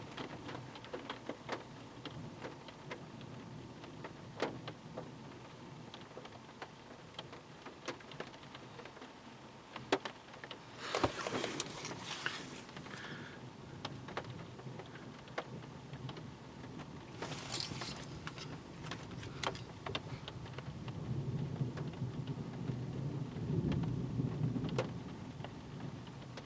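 Rain falling with scattered drips, during a thunderstorm. Two short bursts of louder hiss come through, and near the end a low rumble of thunder swells and fades.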